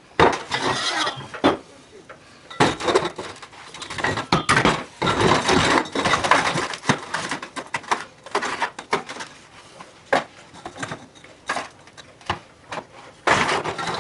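Irregular clattering and clinking of hard objects being handled and knocked together, in uneven runs of knocks.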